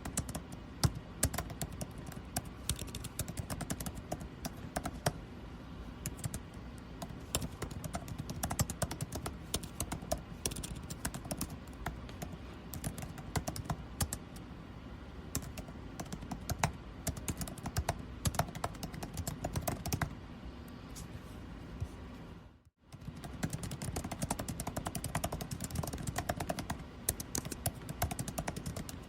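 Computer keyboard typing, a quick irregular run of key clicks, over the steady hum of air conditioning. The sound drops out for an instant about three-quarters of the way through.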